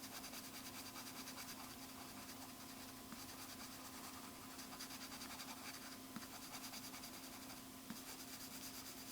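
Drawing tool scratching rapidly back and forth on the drawing surface while shading, in several stretches of quick, even strokes. A faint steady hum runs underneath.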